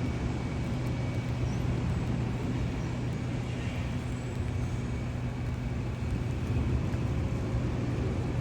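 Street traffic with a steady low engine hum, the sound of a vehicle running close by. It stays even throughout, with no sharp events.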